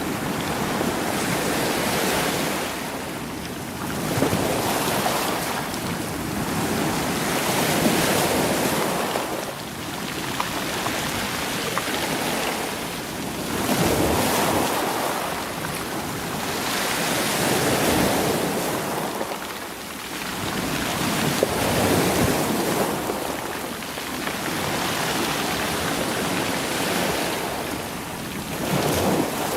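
Sea waves washing over a stony shore, rolling the stones and pebbles against each other. The surf swells and falls back every few seconds, with a fine clatter of stones through the wash.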